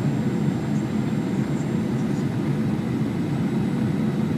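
Steady low cabin roar inside a Boeing 737-900ER in flight, the noise of its CFM56-7B jet engines and the airflow heard from a window seat, even in level throughout.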